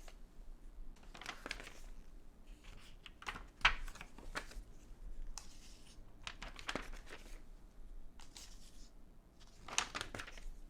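Glossy magazine pages being turned and handled: paper rustling and crinkling with a few sharper snaps, the loudest about three and a half seconds in.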